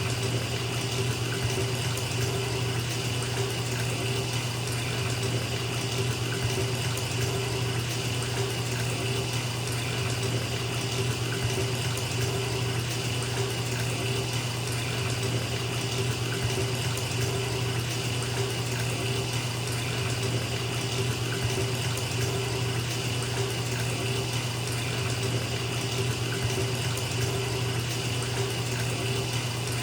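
Bathtub filling: water pouring steadily from the tap into the tub, an even rushing with a low hum beneath it.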